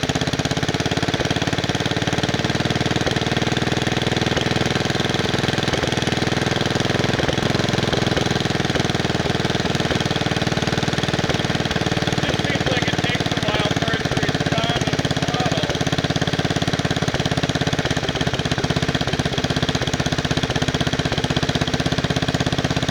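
Wisconsin S8D single-cylinder air-cooled engine on a 1969 Bolens 850 garden tractor, running steadily at a low throttle setting.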